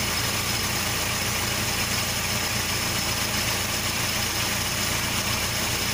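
Volkswagen Santana's AP inline four-cylinder engine idling steadily. It runs evenly, no longer hunting, with its ignition timing, throttle position sensor and oxygen sensor now set right.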